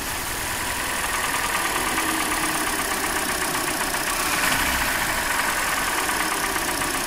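Hyundai Elantra's 1.8-litre four-cylinder engine idling on three cylinders, with cylinder two's ignition coil unplugged. A steady tick runs through it and is still there with that cylinder dead; the owner suspects piston slap.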